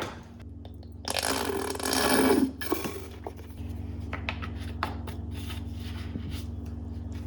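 Plastic condiment squeeze bottle being squeezed, sputtering out air and sauce for about a second and a half, followed by a few small clicks and taps of the bottles.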